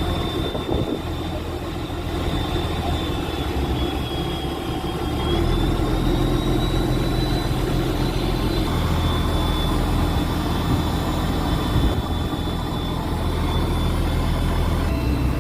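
A fishing boat's engine running steadily, its low drone growing a little louder about five seconds in.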